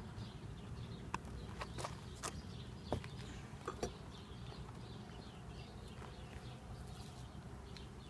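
Sharp wooden clicks and knocks of a beehive frame being worked out of a honey super, scattered through the first four seconds and sparser after, over a steady low hum of honeybees.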